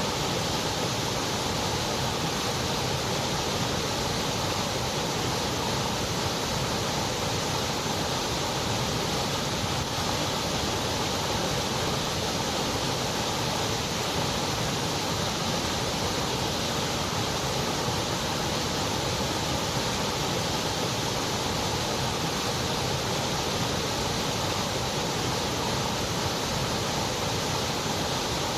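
Continuous white noise: an even, unchanging hiss with no breaks or events.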